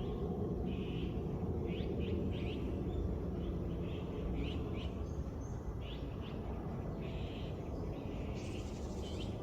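Wild birds calling: a run of short buzzy calls and quick sweeping chirps, repeated every half second or so, over a steady low background rush.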